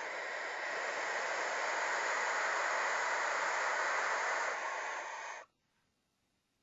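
Barn owls hissing and screeching together in a continuous rasping hiss that cuts off suddenly about five seconds in.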